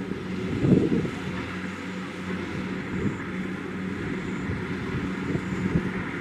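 Kubota DC-70 Plus rice combine harvester running steadily, its diesel engine giving a constant drone under a continuous mechanical wash, with a brief louder swell a little under a second in.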